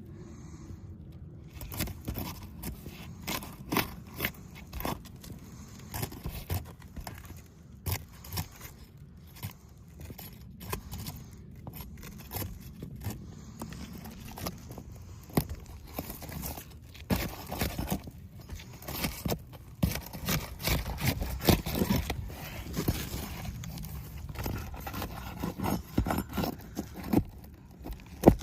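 Irregular scraping and many short, sharp knocks and clicks, busier in the second half, typical of hands-on repair work and handling.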